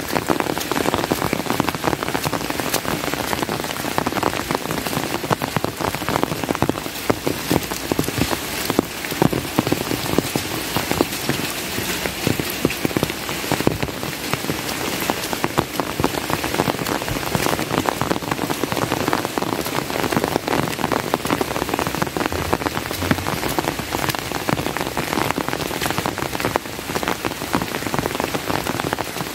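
Steady rain, an even hiss with many individual drops striking close by throughout.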